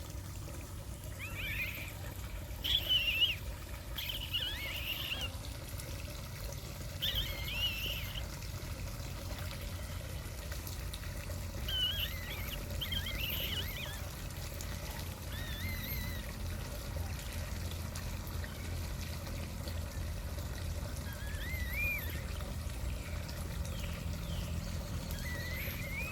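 Birds giving short, wavering whistled calls every few seconds over a steady low rush of water.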